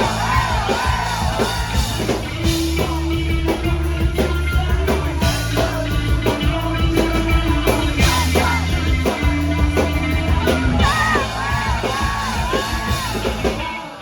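Live rock band playing, with a sung vocal over steady drums and bass; the music stops just at the end.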